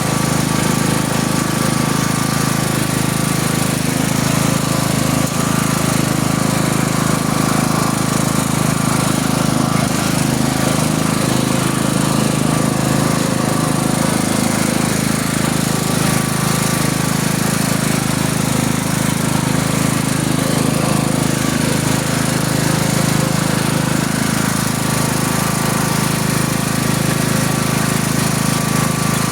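Tractor engine running steadily at an even speed, with no change in pitch or level.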